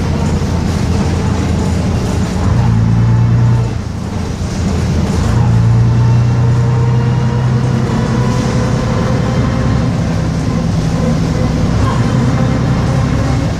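Bristol RELL6L bus's diesel engine running while under way, heard from inside the bus; it is a non-original engine fitted in place of the proper one. The engine note swells about two seconds in, drops back briefly near four seconds, then pulls harder again for a few seconds before settling to a steady run.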